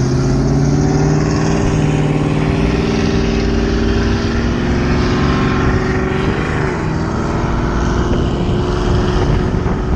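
Vehicle engine running at a steady speed under way, with wind and road rumble; its pitch holds steady apart from a brief waver about six and a half seconds in.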